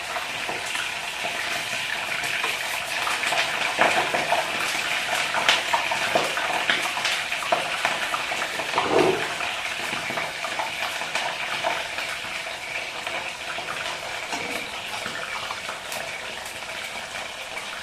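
Hot oil sizzling steadily in a kadhai, with a utensil clicking and scraping against the pan as it is stirred.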